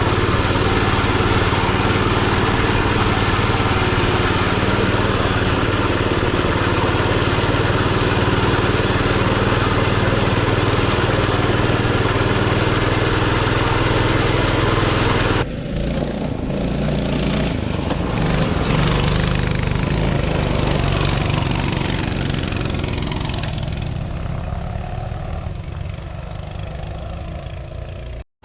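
Coleman mini bike's small single-cylinder four-stroke engine running steadily under way. About halfway through the sound changes abruptly to a quieter, duller engine note, and it cuts out briefly near the end.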